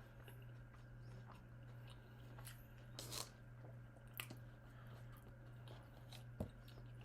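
Faint eating sounds, a few crunches and clicks of a mouthful being bitten and chewed, over a steady low hum.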